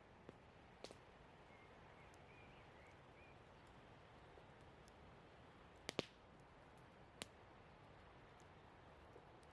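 Campfire wood crackling: a few sharp, scattered pops over a faint steady hiss, the loudest a quick double pop about six seconds in.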